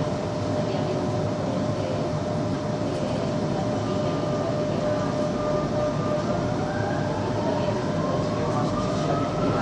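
Metro train running underground, heard from on board: a steady rumble with a constant tone. About six seconds in, a motor whine starts and rises in pitch as the train picks up speed.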